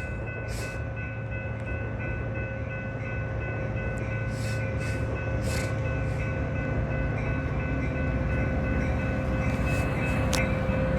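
Metra commuter train pulling into the station, its low rumble slowly growing louder as it approaches, with steady high ringing tones and a few short high clangs over it.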